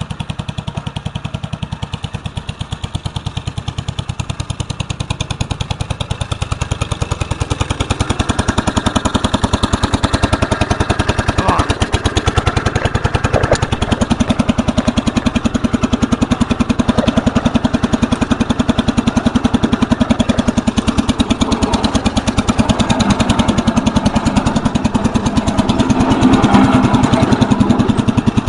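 Engine of a 1964 Cub Cadet 70 garden tractor running steadily while plowing snow, getting louder as it draws nearer. A couple of short knocks come near the middle.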